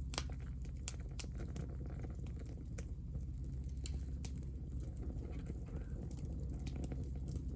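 Hinoki (Japanese cypress) offcuts burning in a small fire: irregular sharp crackles and pops over a steady low rumble.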